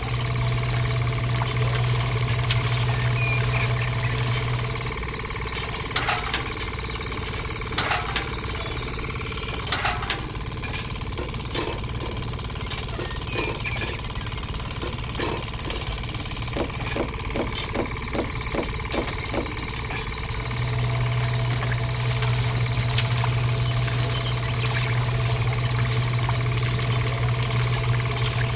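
A steady motor hum with a low drone, which drops away for about fifteen seconds in the middle. In that gap come separate knocks and taps, ending in a quick run of several taps a second before the hum returns.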